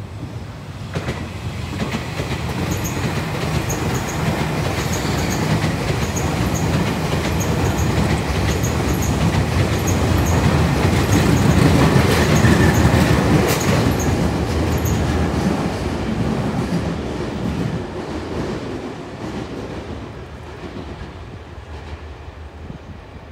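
Tobu 50050-series electric commuter train passing at speed. Its running noise builds, is loudest about halfway through and then fades away. While the cars go by, wheels click in pairs over the rail joints in a steady clickety-clack.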